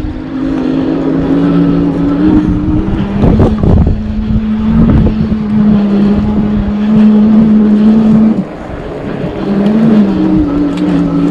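Electric bike's hub motor under power, giving a steady hum that steps between a few pitches as speed changes, with wind rushing over the microphone.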